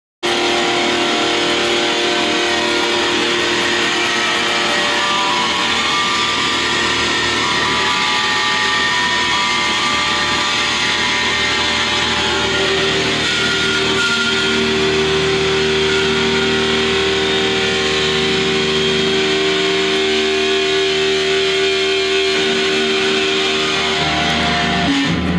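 A recorded rock mix played back loud: fuzz-distorted electric guitars in a dense wall of sound, with long held notes coming in about halfway through. It starts abruptly and cuts off suddenly near the end.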